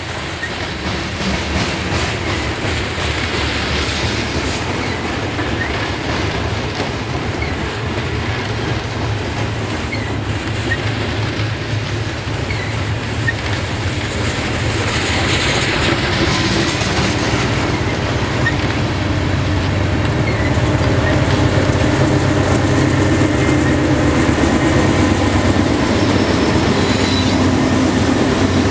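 Long freight train of covered hopper cars rolling past, its wheels clicking over the rail joints, with brief high-pitched wheel squeals. In the second half a diesel locomotive's engine hum comes in and the sound grows louder as a mid-train locomotive draws alongside.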